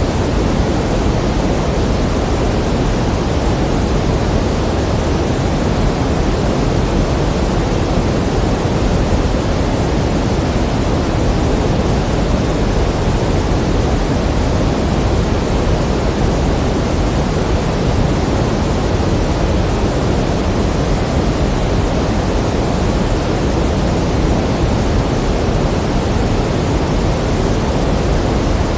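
Pink noise: a steady, even hiss, fuller in the lows than the highs, with no change in level.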